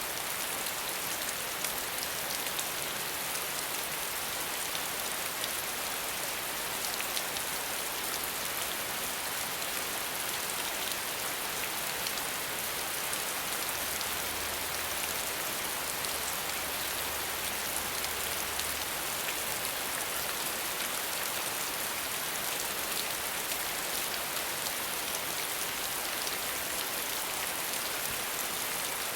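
Steady rain falling, a dense even hiss of drops with fine patter and no thunder.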